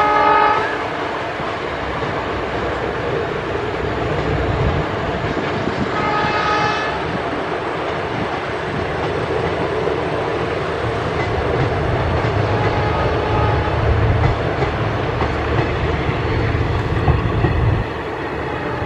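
Indian Railways passenger train locomotive horn sounding in short blasts, at the start and again about six seconds in, with a fainter blast near the middle, over the steady rumble of train wheels on the rails. The rumble grows as the train with its coaches nears and rattles past close by near the end.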